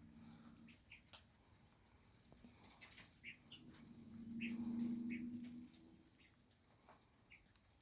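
Faint, soft chirps and small rustling clicks from roosting guinea fowl, with a low hum rising and fading about halfway through.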